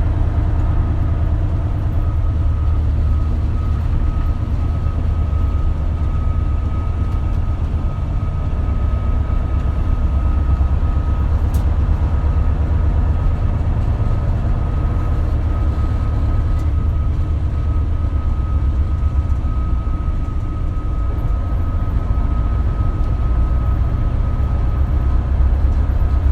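Isuzu Erga (KL-LV280L1) diesel route bus running along at a steady pace: a steady low engine drone with a thin, even whine above it.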